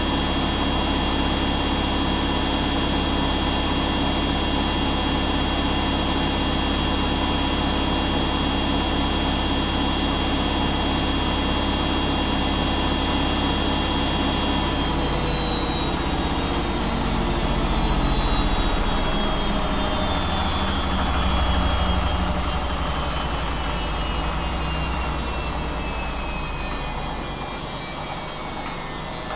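Washing machine on its final high-speed spin, a steady whine that begins to wind down about halfway through, its pitches falling steadily as the drum slows.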